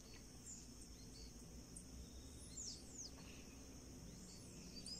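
Near silence, with a few faint bird chirps and a steady faint high-pitched hiss in the background.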